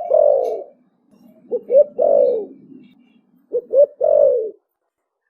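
Spotted dove cooing in the Vietnamese 'thổ bầu' style: repeated phrases of two short notes followed by a longer falling coo, about every two seconds.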